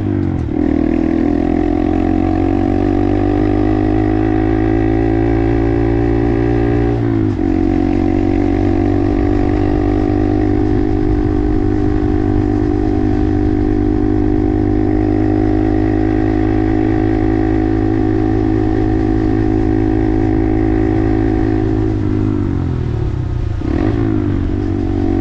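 Honda 125 cc single-cylinder minibike engine running under way: the revs climb slowly, drop sharply at a gear change about seven seconds in, then hold steady while cruising. Near the end the revs fall as the bike slows, then pick up again as it accelerates.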